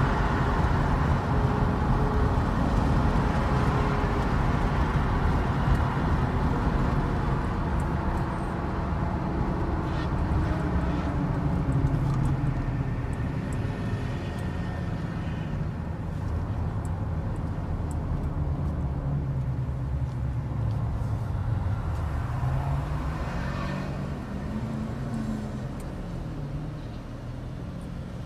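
Motor vehicle driving: engine and road noise, with the engine pitch rising and then falling again near the end.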